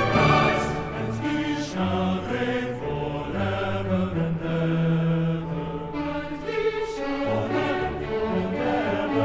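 A symphony orchestra and choir performing classical choral music, moving through long held chords.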